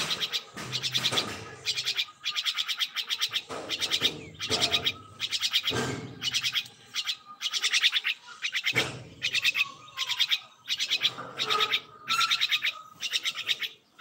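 A small songbird giving a rapid rattling chatter over and over, in short bursts about once a second.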